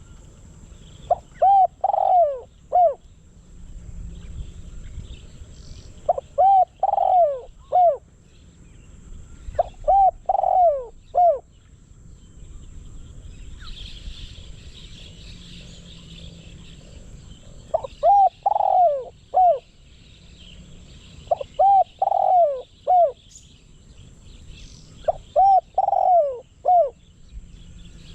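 Decoy spotted dove cooing: six short phrases of about four coos each, repeated every few seconds, with a longer pause midway.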